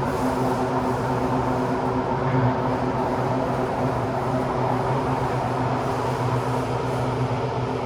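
Inside a Kawasaki–CRRC CT251 metro car running between stations: a steady hum of the train's drive over continuous rumbling wheel-on-rail noise, on a trainset with badly flat-spotted wheels.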